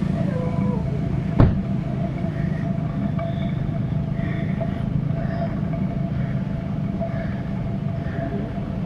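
Steady rumble of a motor vehicle running close by, with a single sharp click about a second and a half in.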